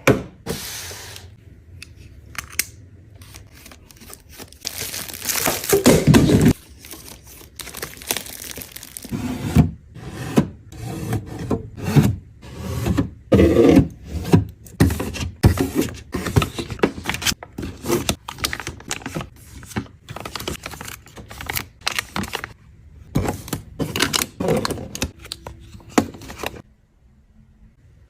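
Food packaging and containers being handled during a fridge restock: plastic crinkling, tearing and scraping, with many short knocks as items are set down. It stops shortly before the end.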